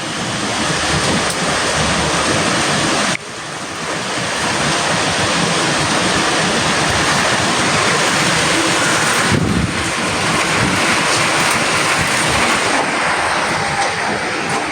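Strong hurricane wind rushing and buffeting the phone's microphone, a loud, dense, steady rush that cuts out briefly about three seconds in and again just before ten seconds.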